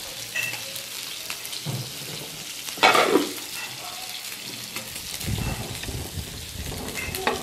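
Steady frying sizzle from tomatillos, garlic and dried chiles on a hot griddle and pork rib pieces cooking in oil, with a brief scrape about three seconds in and a low rumble a little later.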